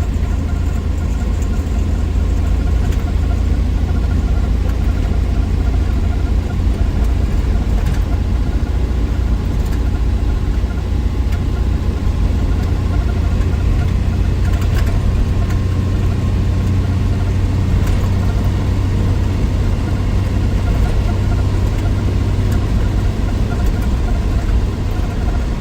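1963 Willys Wagon's 230 Tornado overhead-cam inline-six running at a steady pace on the road: an even low drone with road noise, without change in pitch or level.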